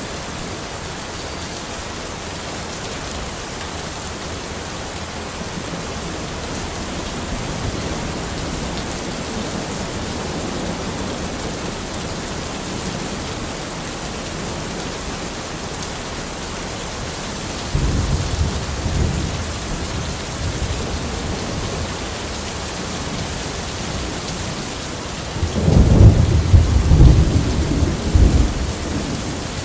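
Steady rain falling in a forest, with rolls of thunder: a short rumble about two-thirds of the way in and a louder, longer one near the end.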